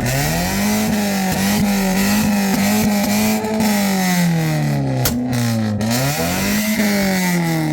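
Car engine revved hard and held high, its pitch dropping and climbing back several times, with two sharp cracks about five seconds in.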